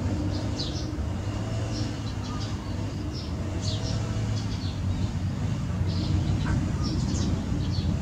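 Small birds chirping, short high chirps coming every second or so, over a steady low hum.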